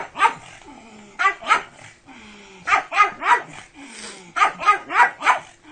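Pug barking repeatedly: about ten short barks in quick clusters of two to four.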